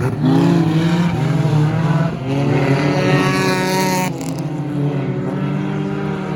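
Several stock car engines running loudly on the track. One climbs in pitch as it revs up and breaks off sharply about four seconds in.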